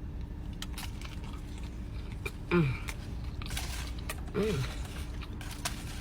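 Close-up biting and chewing of a loaded nacho chicken sandwich with crunchy tortilla chips, scattered crunches and wet mouth clicks. The eater hums twice with a falling pitch, once about halfway through and once near the end.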